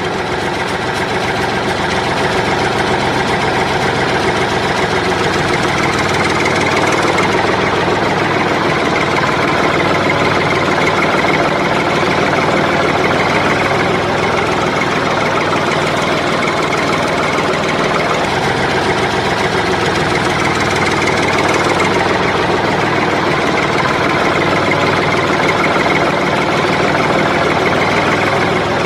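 Tractor engine running steadily at idle with a knocking rumble, holding an even level throughout.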